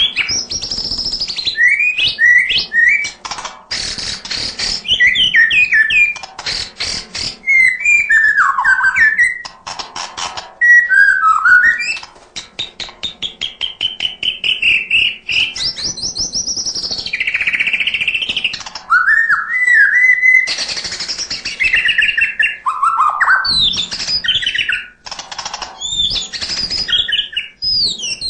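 White-rumped shama (murai batu) singing loudly and without a break: a varied run of clear whistled phrases, sliding notes and fast rattling trills.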